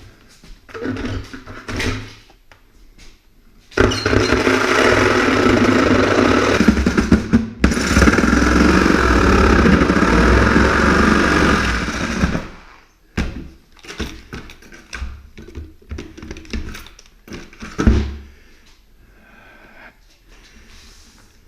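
Corded power saw cutting through an insulated door for a pet-door opening. It runs in two stretches of about four seconds each with a brief stop between, and there are knocks and clatter before and after.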